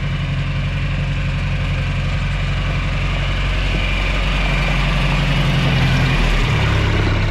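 A large engine running steadily, its low note changing about six and a half seconds in.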